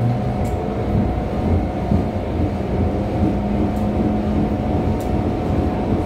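Disneyland Resort Line electric train running along the track, heard from on board: a steady low rumble with a constant hum from the traction equipment and a few faint clicks.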